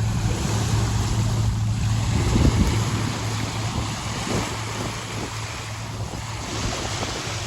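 Wind buffeting the microphone with a steady low rumble, over water washing against the shore.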